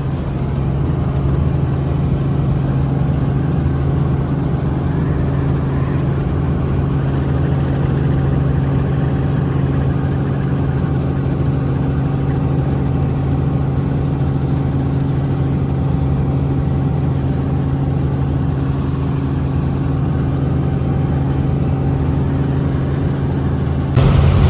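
Steady engine drone of a vehicle, running evenly with a constant low hum of several fixed tones and no change in pitch.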